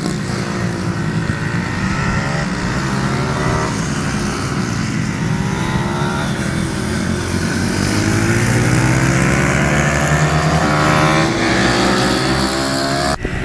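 Pit bike engines revving, the pitch rising and falling over and over as they accelerate and change gear. The sound breaks off abruptly near the end.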